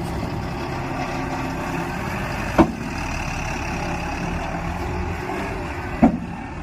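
Tata backhoe loader's diesel engine running steadily at work, with two sharp loud knocks about three and a half seconds apart.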